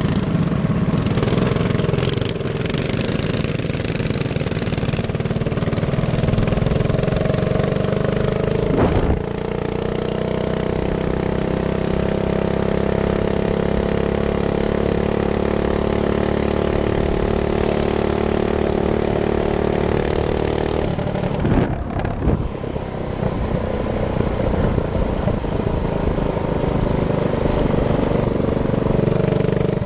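Minibike engine running steadily while riding, its note holding at one speed for long stretches. The note changes about 9 seconds in and breaks briefly around 22 seconds before picking up again.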